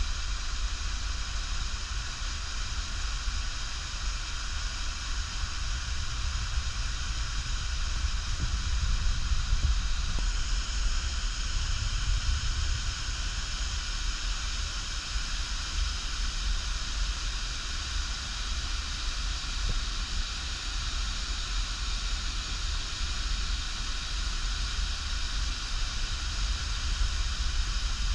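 Steady rush of flowing river water picked up by a GoPro's own microphone, with a strong low rumble under a constant hiss.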